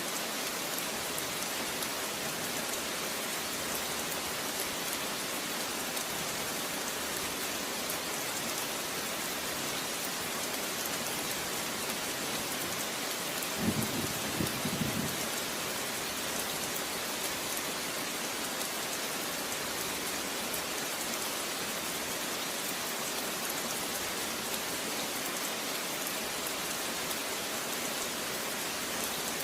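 Steady rain falling, an even hiss of drops on a surface. About halfway through there is a brief low rumble of a few short pulses.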